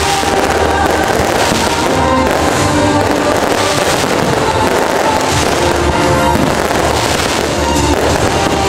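Aerial fireworks shells bursting one after another during a fireworks show, with music playing throughout.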